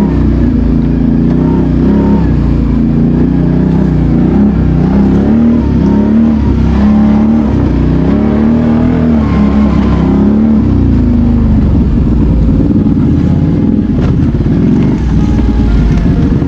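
ATV engine running under throttle, its pitch rising and falling several times as the throttle is worked, then settling into a rougher, steadier drone.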